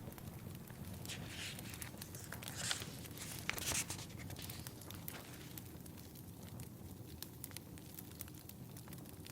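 Fireplace fire crackling steadily, with three brief papery rustles of book pages being turned between about one and four seconds in.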